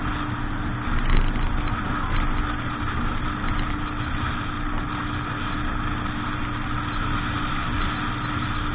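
Motorboat engine running steadily with an even hum.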